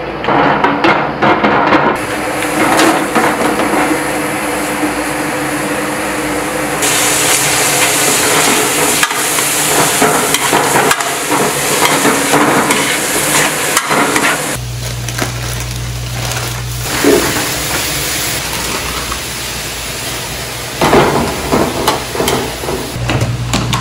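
Sliced onions sizzling in hot oil in a wok while a spatula scrapes and knocks against the pan as they are stirred. A steady low hum comes in about halfway through.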